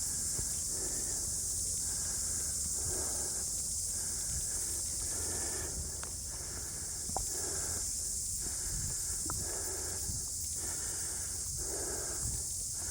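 Heavy breathing, about one breath every second or so, over a steady high-pitched hiss.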